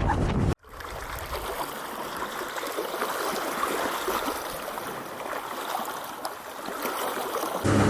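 Lake water trickling and lapping, with small splashes. It starts after loud wind noise cuts off about half a second in. Just before the end, a boat engine starts running loudly with a steady hum.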